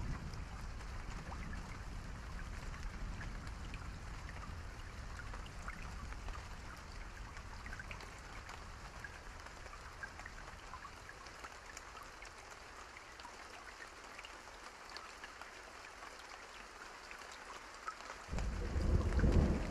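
Steady rainfall with scattered individual drops. A low rumble fades away over the first half, and thunder breaks out suddenly near the end.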